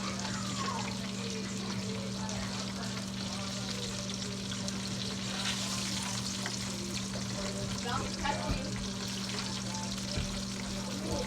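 Chicken frying in hot oil, a steady sizzle, with a steady low hum underneath.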